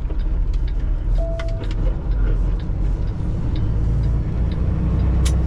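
Semi truck's diesel engine running with a steady low rumble, heard from inside the cab while driving. A short beep sounds about a second in.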